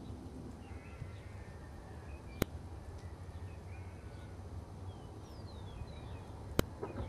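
Birds chirping and calling in short gliding notes over a low steady rumble, with two sharp clicks, about two and a half seconds in and again near the end.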